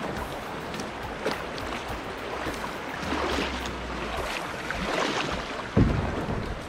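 Water sloshing around a kayak with wind buffeting the microphone, and a sudden low thump near the end.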